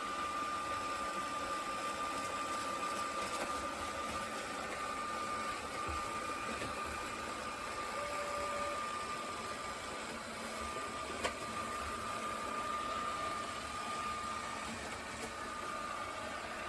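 Roborock Q7B+ robot vacuum running, a steady motor whine over even suction noise. There is a brief lower tone about halfway through and a single click later on.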